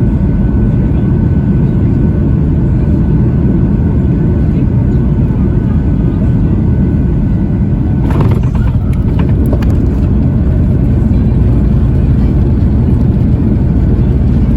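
Loud, steady low roar inside the cabin of a Boeing 737-800 on its landing roll, from the engines and the wheels on the runway. A brief clatter of rattles comes about eight seconds in.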